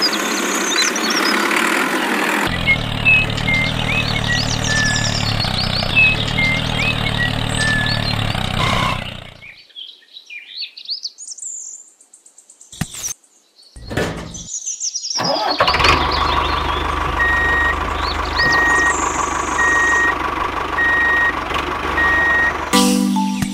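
Tractor engine running steadily while birds chirp over it. The engine drops out for several seconds in the middle, leaving near silence and a few clicks, then comes back. Near the end a row of evenly spaced beeps, about one a second, plays over it.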